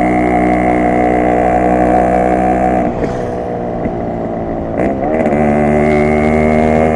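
Yamaha RX 100's single-cylinder two-stroke engine and exhaust running at steady revs under way. The throttle closes about three seconds in and the note drops, then the revs rise again near five seconds and hold steady.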